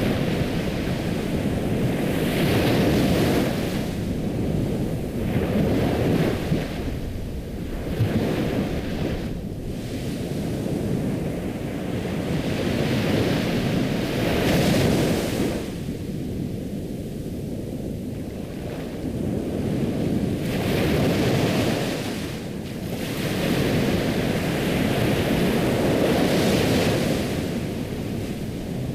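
Ocean waves washing onto a shore in a steady rush, swelling and falling back every few seconds.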